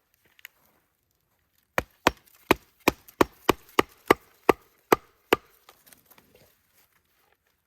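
Wood being struck about a dozen times in quick succession, roughly three sharp blows a second, then stopping.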